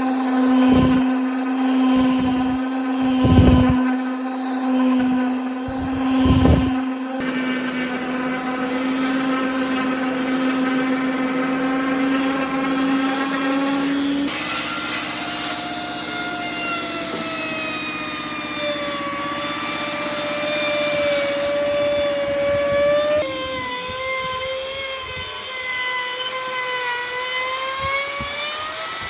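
Electric power tools running with a steady motor whine that slowly drifts in pitch as the load changes. The sound shifts abruptly three times, and several knocks come in the first few seconds.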